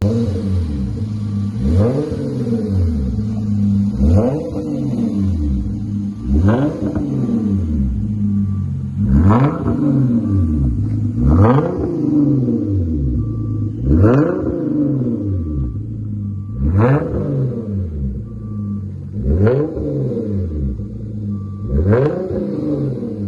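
2013 Hyundai Genesis Coupe's 3.8-litre V6 idling and being revved in short blips, about one every two and a half seconds, each rising quickly and falling back to idle. It is heard through an exhaust whose rear muffler has been replaced by a split Y pipe to dual tips.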